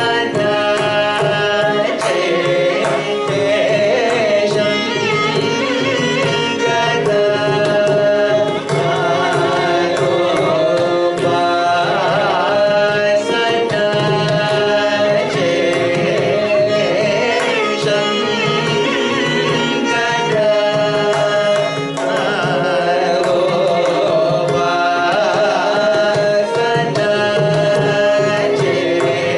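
Carnatic vocal music: a voice singing with ornamented, sliding pitches over a steady run of mridangam strokes.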